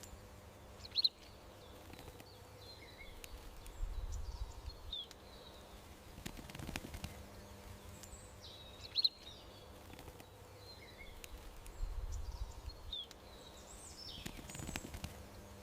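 Small songbirds chirping and calling over a low outdoor background hum, with sharp single chirps about a second in and again about nine seconds in. A low rumble swells briefly about four and twelve seconds in, and the whole pattern repeats about every eight seconds, like a looped track.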